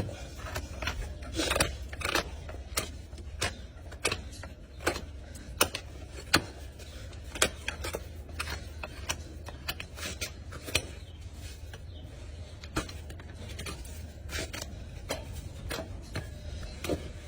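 Hoof trimming: irregular sharp clicks and snips of cutting tools on hoof horn, over a steady low hum.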